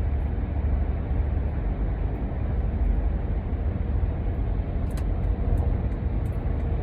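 Steady low rumble of a car, with a few faint ticks about five seconds in.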